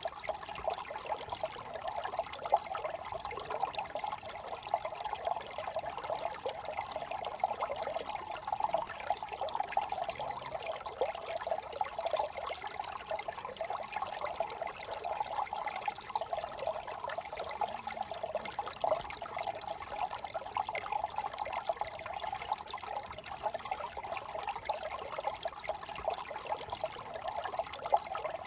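Small brook trickling and burbling over stones, a steady bubbling flow.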